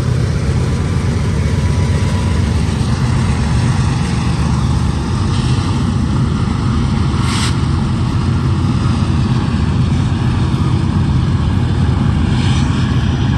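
Diesel-hauled freight train of auto-rack cars passing close by, a steady heavy rumble of locomotive engines and rolling wheels. A brief sharp clank or screech rises above it about seven seconds in, with fainter ones around five and twelve seconds.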